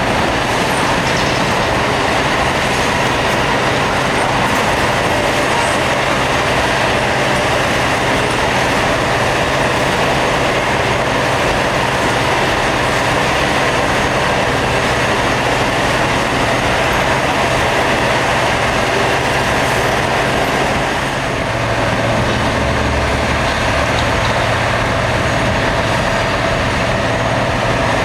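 Rail grinding train at work on the track: a loud, steady grinding noise of abrasive wheels on the railhead over the hum of its diesel engines. The engine note changes about three quarters of the way through.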